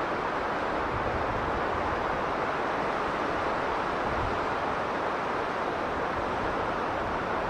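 Strong blizzard wind blowing, a steady, even rushing with no gusts or breaks.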